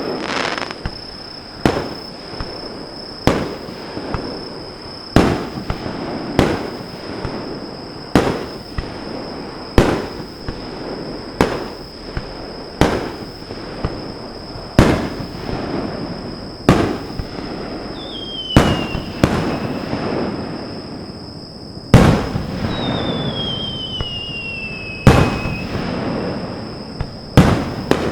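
Aerial fireworks shells bursting in quick succession, a sharp bang every one to two seconds, each trailing a long echoing rumble and crackle. Twice in the second half a whistling tone slides down in pitch.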